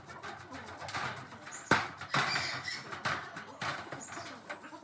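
Irregular knocks and scraping from hand work on parts, with a sharp knock just under two seconds in.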